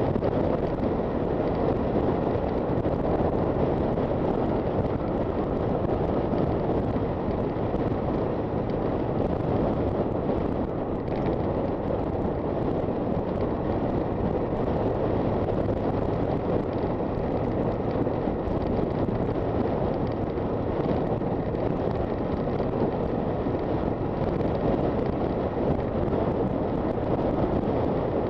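Wind rushing over the microphone on a moving Honda FT400 motorcycle, with the bike's engine running steadily underneath at an even speed.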